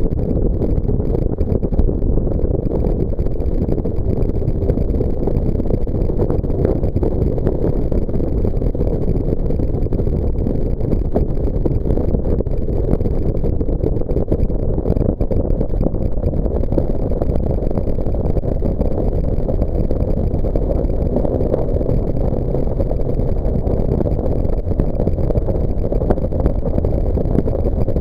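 Jet boat under way, its engine running steadily with a constant low rumble and no change in pace.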